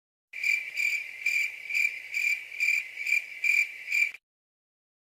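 A cricket chirping: a high, steady trill pulsing about twice a second, starting just after the beginning and stopping about a second before the end.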